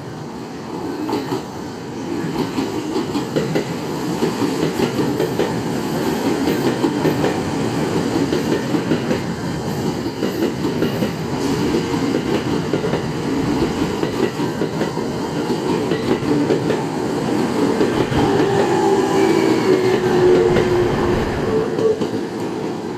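JR East E231 series 1000 electric commuter train running into the platform, its wheels knocking steadily over the rail joints as it grows louder. A brief whining tone joins in near the end.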